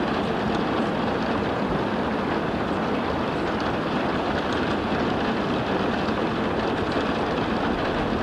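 Steady rushing water, an even unbroken hiss and rumble.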